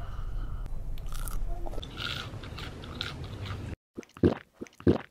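Close-miked eating sounds: crunchy food being bitten and chewed. Near the end, after a brief dropout, come two short, louder chewing sounds about half a second apart.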